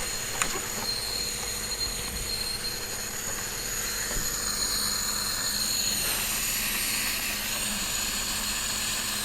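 A machine running steadily: an even hiss with high-pitched whining tones held throughout.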